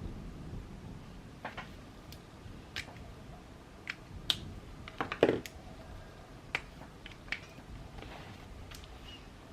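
Scattered small clicks and taps from handling journaling supplies, with a quick cluster of louder taps about five seconds in, over a steady low rumble of rain ambience.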